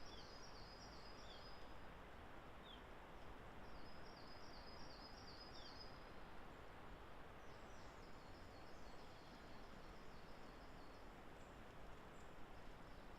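A songbird singing three phrases of rapid, high, repeated notes, each about two seconds long and a few seconds apart, the last fainter. A few short falling call notes are mixed in, over a faint steady hiss of woodland ambience.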